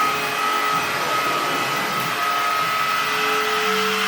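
Dirt Devil 16-volt cordless vacuum running steadily: a high motor whine over the rush of its suction. Its pitch holds level throughout.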